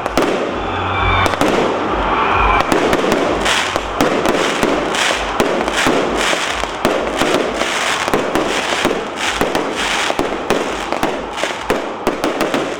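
A long, rapid string of firecrackers going off, dense irregular pops and crackles with no break.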